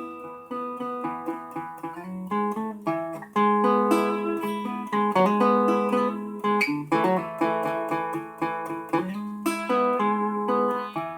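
Acoustic guitar playing an instrumental passage of quick plucked notes and strummed chords, with no singing.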